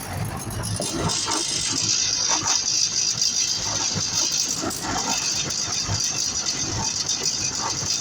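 Electric arc welding on steel angle iron: the arc strikes about a second in and then runs with a steady, crackling sizzle.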